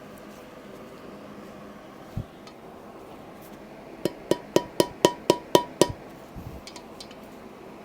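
A quick series of about eight sharp metal-on-metal strikes, roughly four a second, each ringing briefly, after a single dull thump a couple of seconds earlier.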